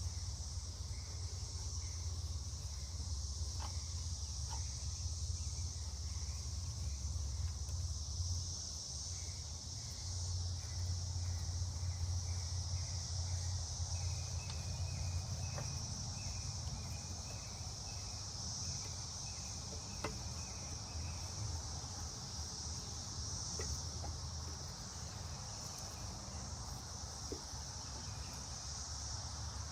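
Steady high-pitched chorus of insects, crickets by its sound, over a low steady hum. A run of short repeated chirps comes through in the middle, and there are a few faint clicks.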